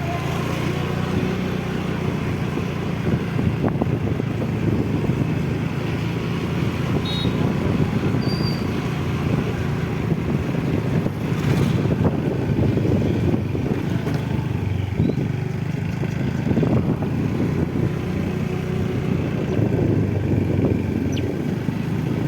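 A motor vehicle engine running steadily, with road and wind noise.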